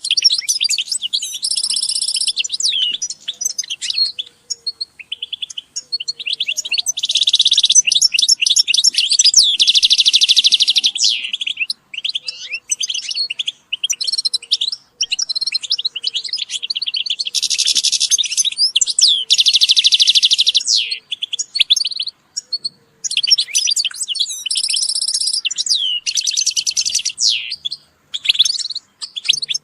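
European goldfinches singing: fast, liquid twittering song with tinkling trills and short buzzy notes, nearly continuous with a few brief pauses, several birds calling together.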